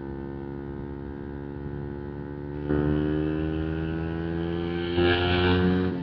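125 cc single-cylinder motorcycle engine with a full Arrow exhaust, under way with its pitch slowly rising. The throttle opens harder about three seconds in and again near the end, then the revs drop off.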